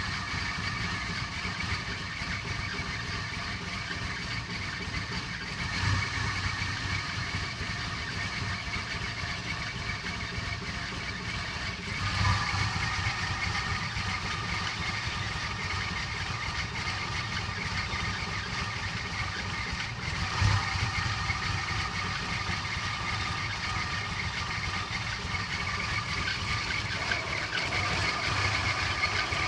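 Toyota Cressida engine idling roughly, a steady run broken by a few brief louder bumps or stumbles spaced several seconds apart.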